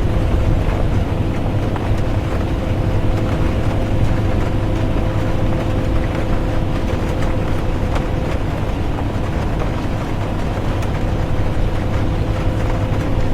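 Bus interior while driving: steady low engine and road rumble with a constant hum, and rain on the bus heard as a faint even patter of small ticks.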